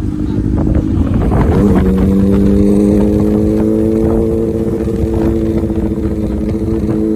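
Kawasaki ZX-6R inline-four engine running under way, its pitch rising about a second in and then holding steady, with wind rushing on the microphone.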